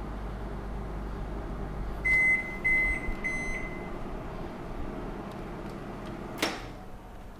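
Microwave oven running with a low hum that stops about two seconds in, followed by three beeps marking the end of the cooking cycle. Near the end there is a single sharp click.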